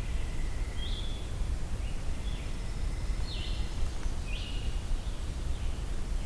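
Yellow-bellied sapsucker calling: about five short, slurred, downward calls, roughly one a second, over a steady low rumble of outdoor background noise.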